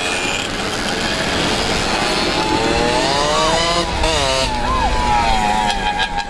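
Small motorcycle and moped engines running as they ride past, one revving so its pitch rises and falls several times in the middle.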